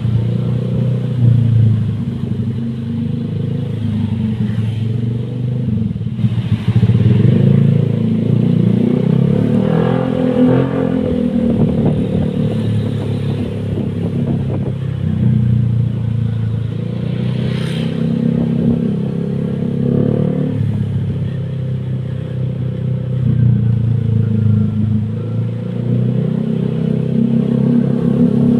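Honda Vario 125 single-cylinder scooter engine running through an R9 aftermarket exhaust, its note rising and falling a little. A single sharp click about two-thirds of the way through.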